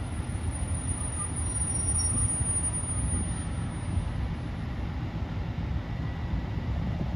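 Diesel train at a station platform, running with a steady low rumble. A thin high whine fades out about four seconds in.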